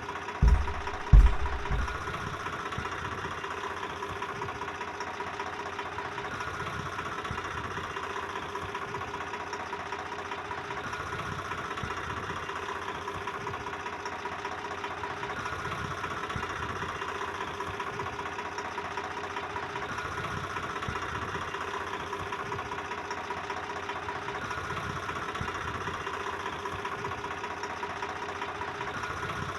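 Tractor engine running steadily, with a few heavy low thumps in the first two seconds.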